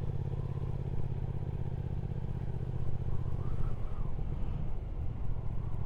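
Triumph Speed Twin 1200's parallel-twin engine running steadily while under way, its note shifting and wavering about two-thirds of the way through.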